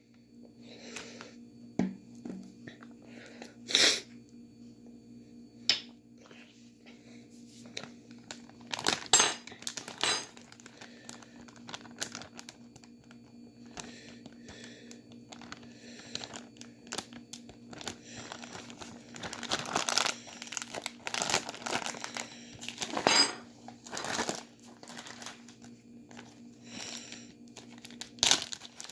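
Plastic bags being handled: irregular crinkling and rustling with scattered sharp clicks and knocks, over a steady low hum.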